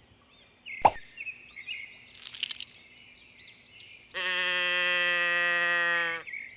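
Sound effects: a sharp pop about a second in, then small bubbly plopping blips, then a loud, steady two-second bleating call near the end.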